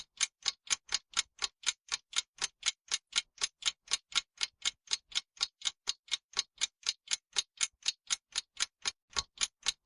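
Clock-like ticking sound effect, even and steady at about four ticks a second: a quiz countdown timer running while the answer is awaited.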